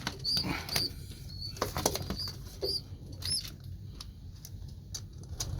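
Pigeon wings flapping and fluttering, with sharp clicks and a run of about eight short, high-pitched squeaks from young pigeons.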